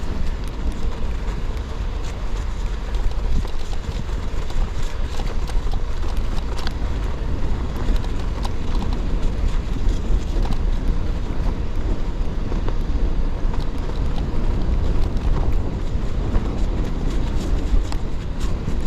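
Gravel bike tyres rolling over snow and ice, a steady rumbling crunch with scattered clicks, and wind rumbling on the action camera's microphone.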